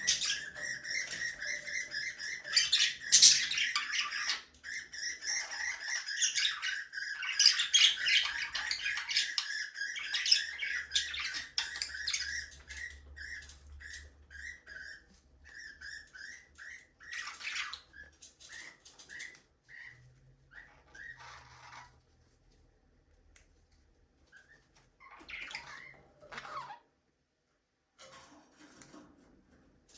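Budgerigars chirping and chattering with quick repeated chirps and occasional squawks. The calls are busy and continuous for the first dozen seconds, then thin out to scattered chirps with short pauses.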